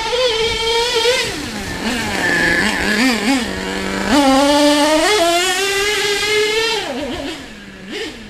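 HPI Savage SS nitro RC truck's small glow-fuel engine revving high, dropping to a low steady idle about two seconds in, then revving up again and falling back near the end.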